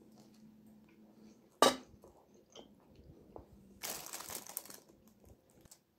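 Close-miked eating: a woman biting and chewing a bread roll, with one sharp click about a second and a half in and a short crunchy rustle around four seconds in.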